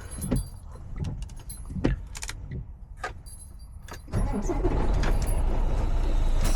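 Semi truck's diesel engine idling low with small clicks and knocks of handling in the cab; about four seconds in the engine sound becomes much louder and rougher, with a steady hiss over it.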